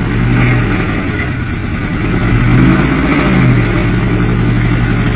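Truck engine revving hard under load as it labours up a steep hill, its pitch wavering up and down and peaking a little past the middle.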